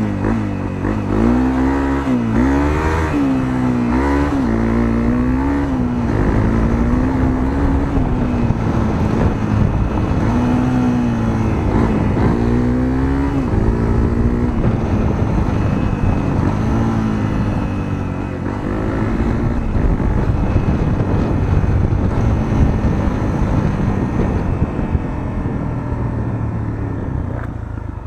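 Honda CRF250L single-cylinder four-stroke engine through a Moriwaki aftermarket muffler, heard from on the bike, revving up and falling back again and again through the first half, then running steadier, with the level dropping off near the end.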